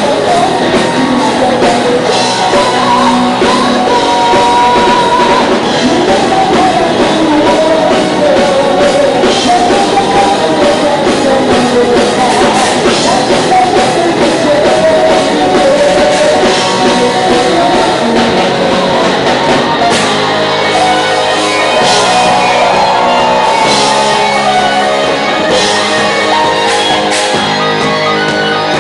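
Live rock band playing: a singer over electric guitars and a drum kit. About two-thirds of the way through the singing stops and the band carries on with a steady, rhythmic instrumental part.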